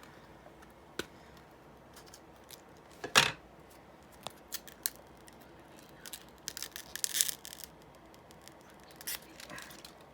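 A phone case and its packaging being handled: scattered clicks and rustles. The loudest is a sharp snap about three seconds in, then a run of crinkling around seven seconds and again near the end.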